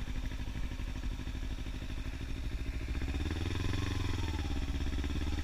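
Motorcycle engine running, revving up and easing off again once about three seconds in.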